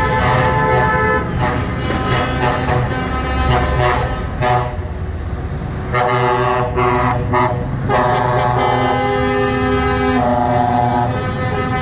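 Lorry and tractor horns tooting over running engines: a few short toots, then a long held blast of several horns together from about eight seconds in.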